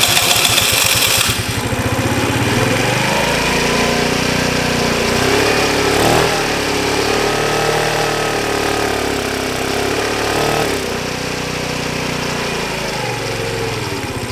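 A 50cc 139QMB four-stroke scooter engine running, revved up in the middle and let back down. It runs with its airbox off and is starved, which the owner puts down to a dirty carburettor or clogged fuel filter.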